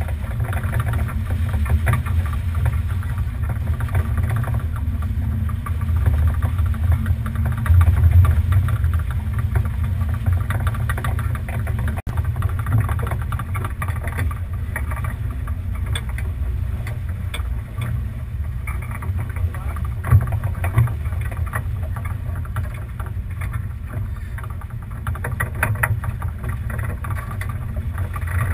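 Wind rumbling on the microphone of a sailboat under way, over a steady rush of water along the hull, with a stronger gust about eight seconds in.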